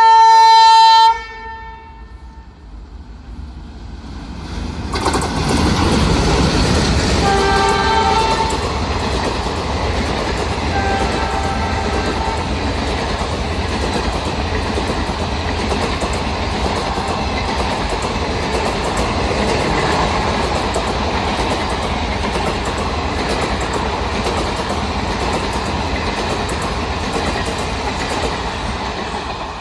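Indian Railways WDM3D twin diesel locomotives sound a loud horn blast of about a second, then come past with heavy engine and rail noise and give two shorter horn sounds. After that the coaches run past with a steady clatter of wheels over the rail joints.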